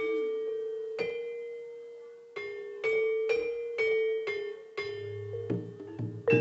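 Jaranan gamelan music: metal-keyed metallophones struck one ringing note at a time, slow at first and then quickening. Lower, deeper tones join in near the end.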